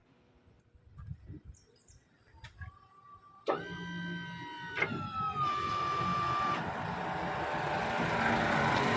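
A few faint clicks, then about three and a half seconds in the lift truck's electric hydraulic pump motor starts suddenly. Its high whine slides slightly lower and drops away after about three seconds, leaving a steady running noise that grows louder toward the end, as the hydraulics raise the support leg.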